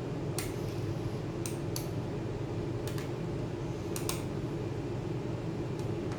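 Small sharp clicks and taps of small metal tools or parts being handled, about six of them, two pairs close together, over a steady low hum.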